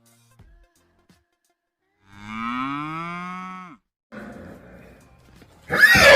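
A cow mooing once, one long call of about a second and a half that dips in pitch at the end. Near the end a horse's neigh starts loudly.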